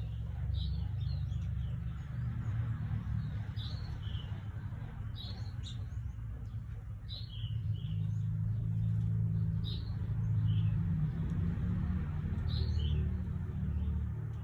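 Short chirping calls from a white-rumped shama (murai batu), coming in small clusters every second or two, over a steady low rumble.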